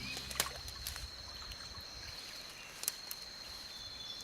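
Quiet river ambience: faint water trickling and lapping under a steady high insect tone, with a couple of small clicks.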